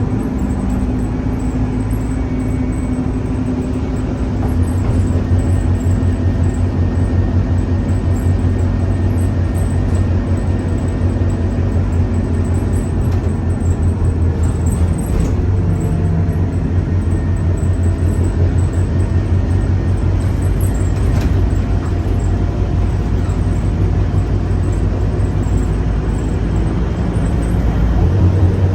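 Scania K310UA city bus engine running steadily with a deep drone. It grows louder about four and a half seconds in, as if pulling under load, and eases briefly about halfway through.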